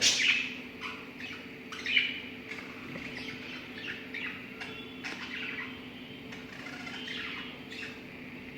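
Pet lovebirds chirping and chattering in quick short calls, with a loud sharp call at the start and another about two seconds in. A steady low hum runs underneath.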